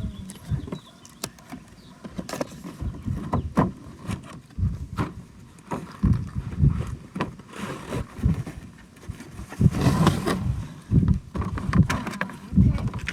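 Packaging and plastic toy parts being handled: irregular knocks, clicks and scrapes, busiest about ten seconds in.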